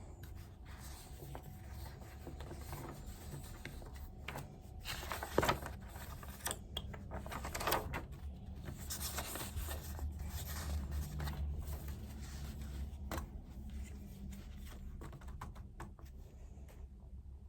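Pen writing on paper: irregular scratching strokes with a few light taps, the longest run of strokes about nine seconds in, over a low steady hum.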